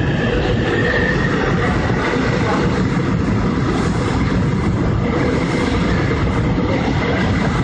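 Steady, loud running noise of a moving vehicle, dense and low, with a few faint steady tones over it.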